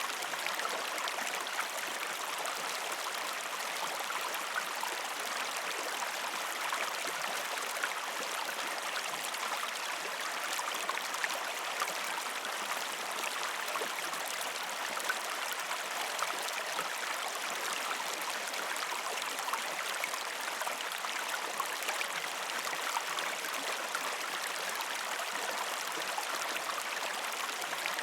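A gentle river stream flowing over rocks: a steady rushing of water with many small splashes scattered through it.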